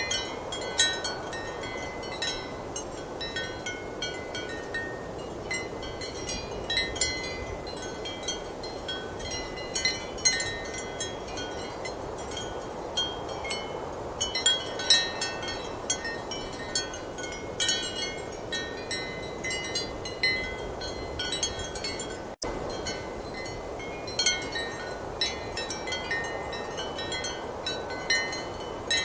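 Ceramic wind chimes clinking in irregular clusters of short, ringing strikes over a steady rush of strong wind. There is a momentary cut-out about three-quarters of the way through.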